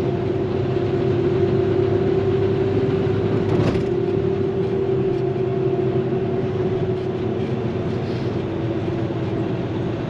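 Day cab truck heard from inside the cab while driving: a steady engine and road drone with a constant hum, and one brief click about three and a half seconds in.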